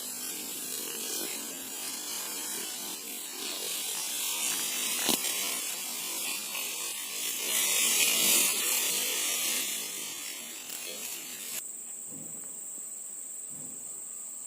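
Rough, rustling hiss with a single sharp click about five seconds in; it cuts off suddenly near the end. After that comes a steady, high-pitched insect drone.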